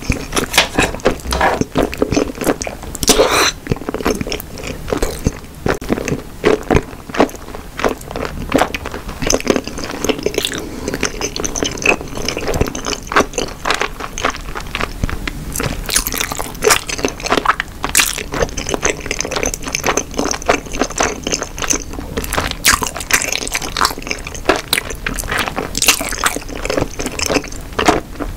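A person chewing a mouthful of Korean snack food close to the microphone, with many irregular mouth clicks throughout.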